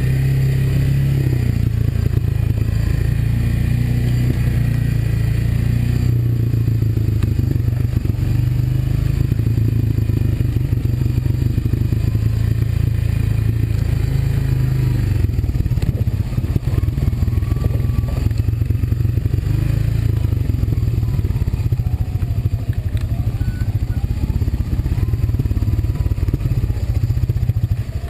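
Honda ATV engine running on the move. The note holds steady for the first half, then turns choppier about halfway through.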